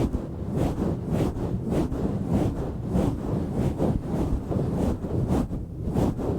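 Microphone foam cover rubbed and swirled directly against the mic, giving a deep, rumbling rustle that pulses in a steady rhythm of strokes.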